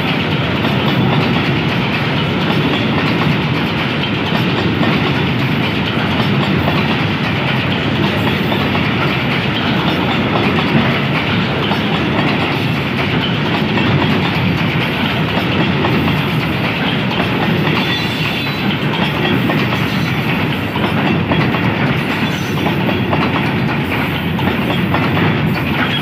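Coal hopper wagons of a long freight train rolling past close by: a steady, loud rumble with the clatter of steel wheels on the rails.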